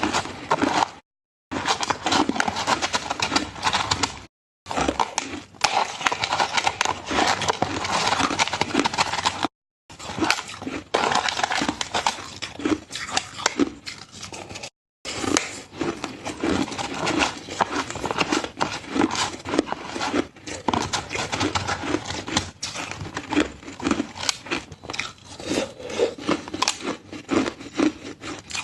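Ice being bitten and chewed close to the microphone: rapid, irregular crunching and cracking, broken by a few abrupt cuts to dead silence.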